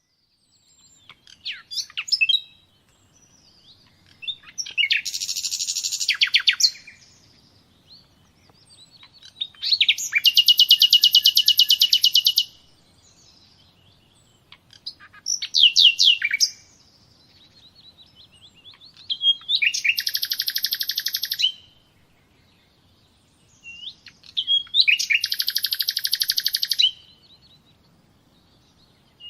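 A songbird singing the same song over and over, about every five seconds: a few quick sharp notes, then a fast, dense, high trill lasting up to two and a half seconds.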